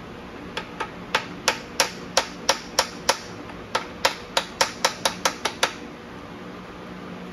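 Hammer tapping in a steady run of sharp strikes, about three a second, then after a brief pause a faster run of about five a second, during the tear-down of an engine's connecting rods and bearings.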